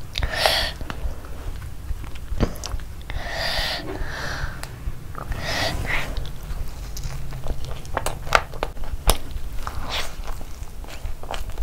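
Close-miked eating: a person chewing and biting big mouthfuls of food, with many wet mouth clicks and smacks, and three short hissing noises in the first six seconds.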